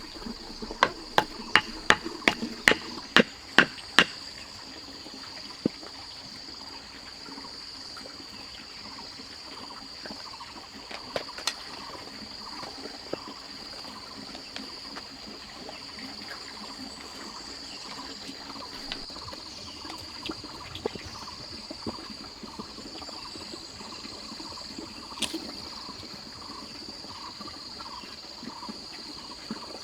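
Sharp knocks of a tool striking, about eight in quick succession in the first four seconds and a few scattered ones later, over a steady high-pitched insect drone.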